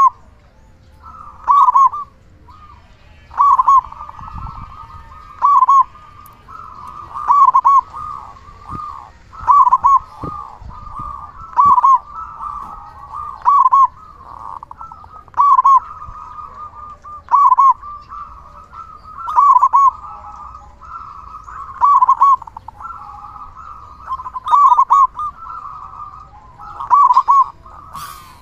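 Zebra dove (perkutut) cooing with a big voice, its song phrase repeated about every two seconds, with softer continuous cooing between the phrases.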